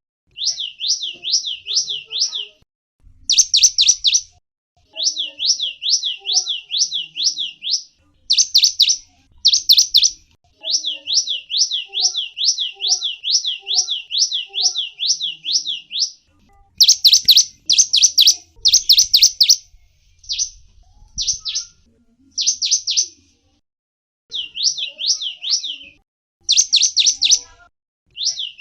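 A gelatik wingko songbird singing: phrases of fast, high, repeated notes, about four a second, each lasting one to five seconds with short pauses between.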